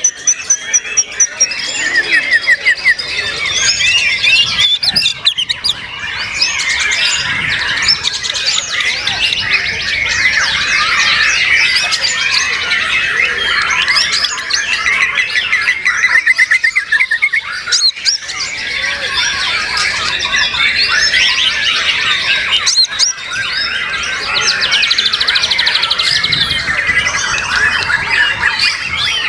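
Several white-rumped shamas (murai batu) singing at once: a dense, unbroken tangle of overlapping rapid trills and whistles.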